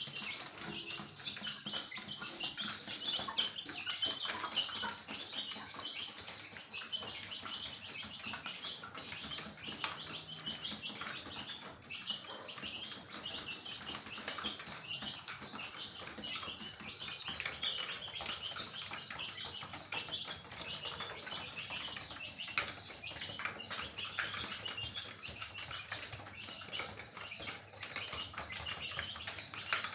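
Many birds chirping steadily, a dense stream of short, overlapping high-pitched calls, with some wing flapping or scuffling among them.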